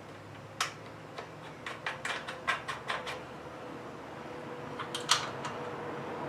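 A run of short, sharp clicks and taps, closely spaced for a couple of seconds and then again briefly near the end: parts and hand tools being handled while a pressure washer's small engine is put back together.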